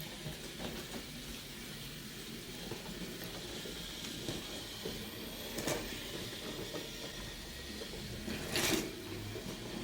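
Battery-powered toy trains running on wooden track: a steady small-motor whir and wheel rattle, with a sharp click a little past halfway and a louder, longer rattle near the end.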